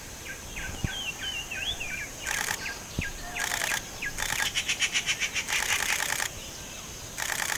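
Wild birds calling: one bird repeats short, sharp whistled notes over and over, and from about two seconds in several fast, buzzy trills come in bursts, the longest in the middle.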